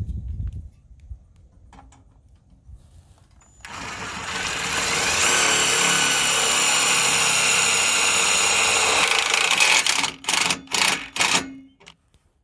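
Power drill driving a self-tapping screw into the bumper's metal. It spins up about four seconds in, holds a steady pitch for about five seconds, then gives a few short bursts as the screw is seated.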